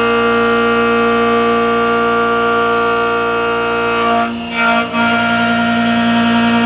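Chamfer milling cutter on a CNC drilling centre cutting a weld-prep bevel into metal: a steady, loud multi-tone whine from the cutter. Around four seconds in it briefly dips and wavers, then resumes.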